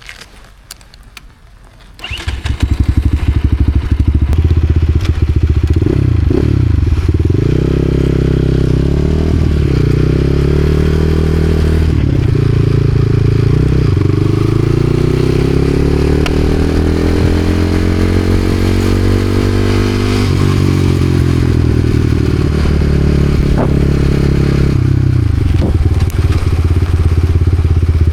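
Supermoto motorcycle engine starting up suddenly after a couple of seconds of quiet with a few clicks. It then runs loudly, with the revs rising and falling. Midway there is a long climb in pitch that drops back sharply, as if accelerating and then closing the throttle.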